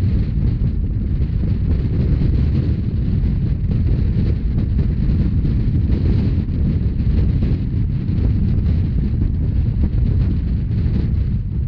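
Steady low rumble of a Rhaetian Railway narrow-gauge train running along the track, with heavy wind buffeting the microphone.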